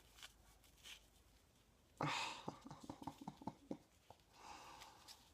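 Paper rustling, then a quick run of small clicks and taps, as the pages and tucked-in bits of a handmade paper journal are handled.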